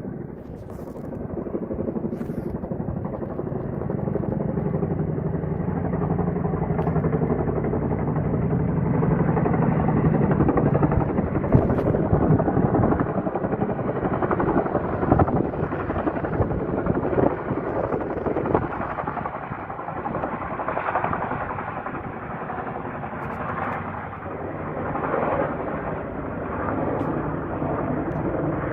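Military helicopter's rotor and engine running with a steady rapid chop, growing louder over the first few seconds.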